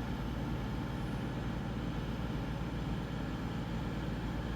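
Class 222 Meridian diesel-electric multiple unit's engines running with a steady low rumble as the train starts to pull away from the platform.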